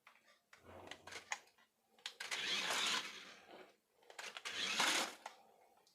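A toy RC 4x4 climbing truck's small electric motor and plastic gearbox whirring in three short runs of about a second each, the middle one the loudest, with a few clicks in between.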